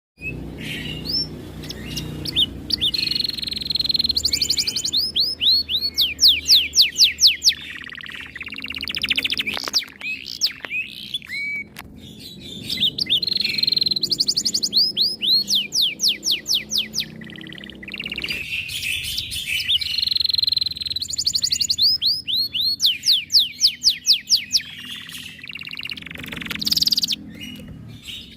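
Domestic canary singing a long, continuous song: fast rolling trills alternating with runs of quick downward-swooping whistles, the phrases repeating over and over.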